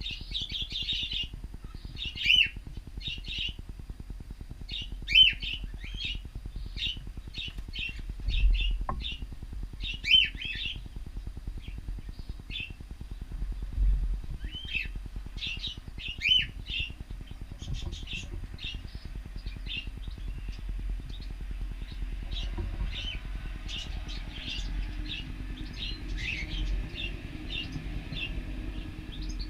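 Cockatiels chirping and calling repeatedly in short calls, with a few louder calls standing out. About three-quarters of the way through, a low steady hum comes in underneath.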